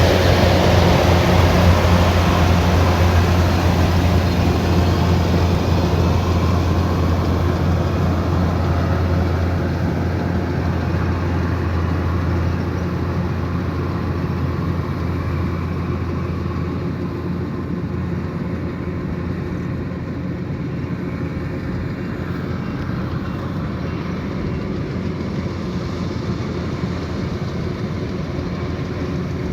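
Kubota DC108X combine harvester's diesel engine and machinery running steadily with a deep, even hum. The sound eases gradually through the first half and then holds steady.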